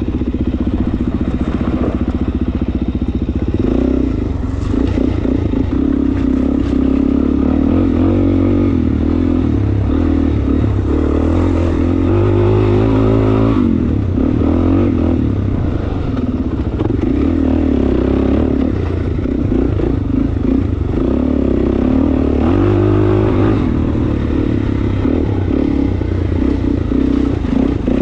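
Suzuki DR-Z400S single-cylinder four-stroke dirt bike engine running under way, its revs rising and falling again and again with the throttle, with a few brief knocks.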